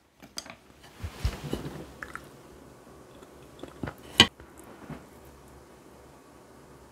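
Close-miked chewing and wet mouth sounds of eating a soft cheese-filled tteokgalbi (Korean grilled meat patty), with a few short clicks, the sharpest about four seconds in.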